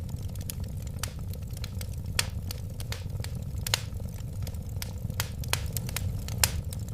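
Wood fire burning in a fireplace: a steady low rumble of flames with irregular sharp crackles and pops from the burning wood, several louder snaps among them.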